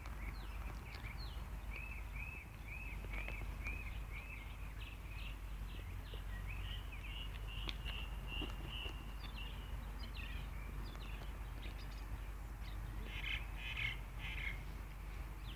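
Songbird singing outdoors: a run of about six short, alike chirps, then warbling phrases, then a quick cluster of calls near the end, over a steady low rumble of background noise.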